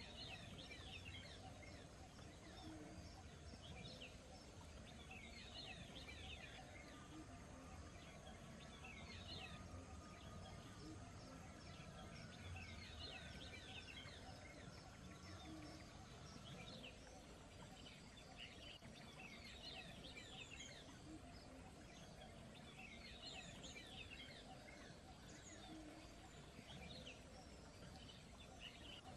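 Faint bird song: clusters of quick falling chirps repeated every second or two, over a steady low background noise.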